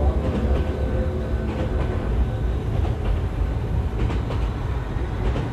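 Model train running along the track, heard from a camera riding on it: a steady low rumble of wheels and motor with occasional faint clicks.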